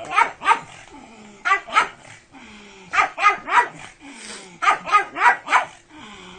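Pug barking in quick clusters of two or three sharp barks, roughly every second and a half, several sliding down in pitch.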